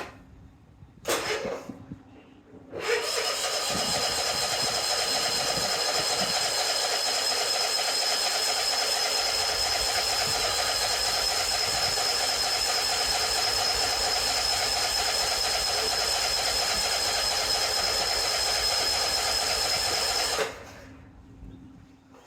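Exmark mower's engine being cranked over by its electric starter: a short blip about a second in, then a long steady cranking run of some 17 seconds that cuts off suddenly without the engine catching, the sign of a mower that won't start.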